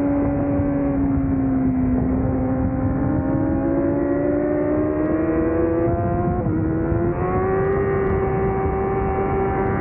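Honda CBR1000RR-R Fireblade's inline-four engine pulling through a long corner at race pace under wind noise. The engine note sags a little, then climbs steadily, breaks briefly about six and a half seconds in, and holds at a higher, steady pitch.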